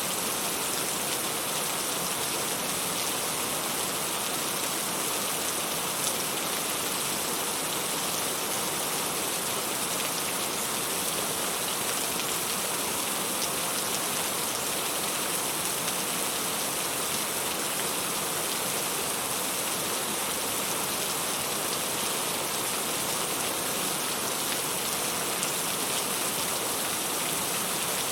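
Steady rainfall, an even hiss of rain with faint scattered drop ticks, unchanging throughout.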